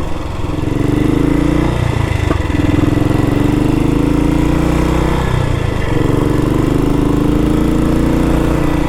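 1962 Matchless G80CS scrambler's 500 cc single-cylinder four-stroke engine pulling under load in fourth gear. Its note rises slowly in three stretches, easing off briefly about two seconds in and again past the middle.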